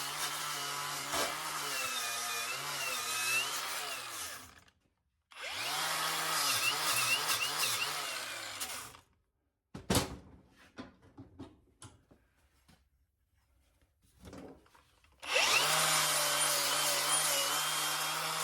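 Handheld electric power tool scrubbing rust off an old steel brake or clutch pedal, running in three bursts. It stops about four seconds in, spins up again for a few seconds, and spins up once more near the end. Light clicks and knocks of the part being handled come between the second and third runs.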